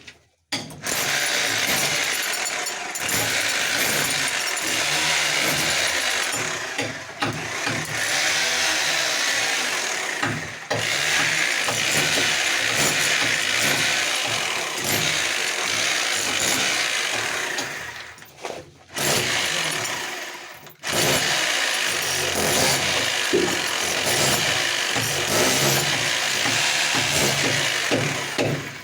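A loud power tool running almost continuously, easing off briefly twice about two-thirds of the way through.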